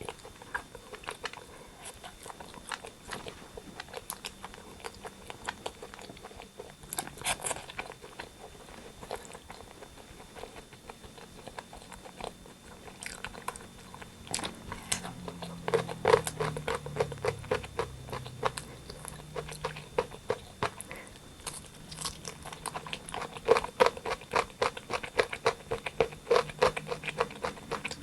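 Close-miked eating of rotisserie chicken: chewing and biting with rapid wet, crunchy mouth clicks, getting busier and louder from about halfway through.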